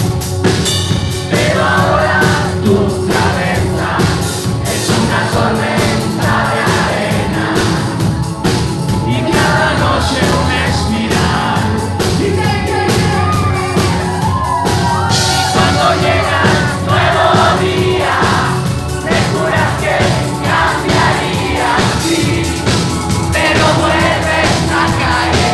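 Pop-rock band playing live, with sung vocals over a steady beat and full backing.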